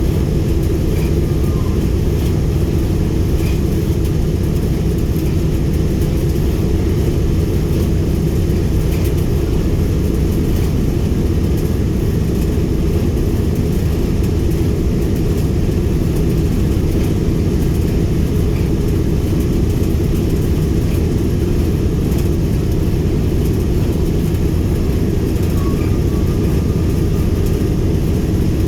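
A B-17G Flying Fortress's Wright R-1820 Cyclone nine-cylinder radial engines running steadily, a loud, even, low drone that does not change.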